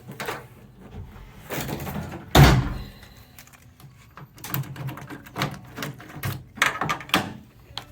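Several thunks and clanks from handling the back of a pickup truck, the loudest a heavy thunk about two and a half seconds in, with more knocks and rattles after it.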